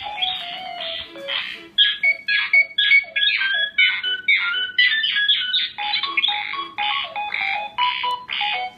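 R2-D2-style beeps, whistles and chirps played by an Arduino through a homemade R2-D2 droid's speakers: a rapid, unbroken string of short electronic blips and warbling pitch glides.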